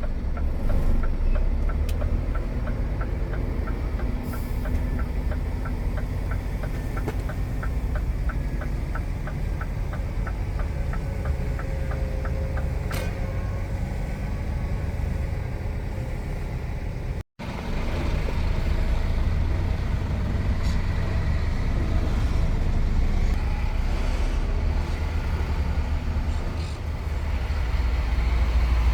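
Truck's diesel engine and road noise heard from the cab while driving, a steady low rumble. An evenly repeating tick, like a turn-signal relay, runs for the first dozen or so seconds, and the sound cuts out for an instant about two-thirds of the way through.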